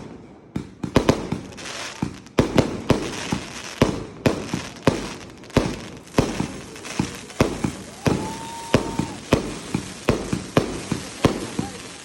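Fireworks going off in a rapid, irregular run of sharp bangs, about two a second, each with a brief echo. A short whistle sounds about eight seconds in.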